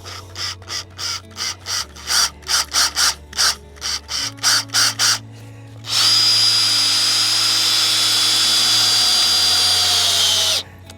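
Power drill used on a screw, first pulsed in short bursts about three a second, then run continuously for several seconds with a steady high whine before stopping abruptly.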